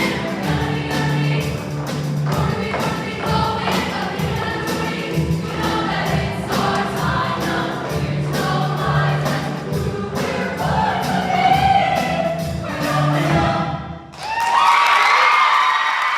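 Choir singing over a steady-beat musical accompaniment. About two seconds before the end the music drops out for a moment, then the voices come back in on a long held chord.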